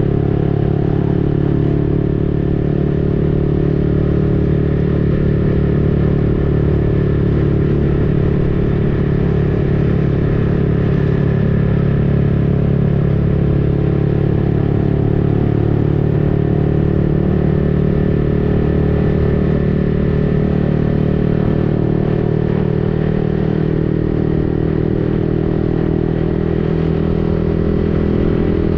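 Yamaha XSR155's single-cylinder engine running through an aftermarket Akrapovic-replica exhaust, held at fairly steady revs while cruising.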